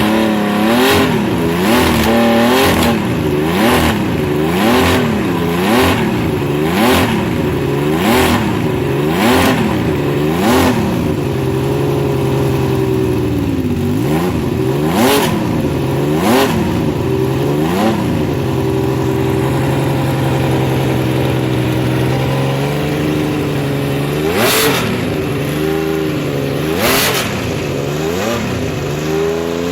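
Six-cylinder motorcycle engine being revved in quick throttle blips about once a second, its pitch rising and falling each time. Midway it is held at one steady engine speed for a few seconds, then blipped a few more times near the end.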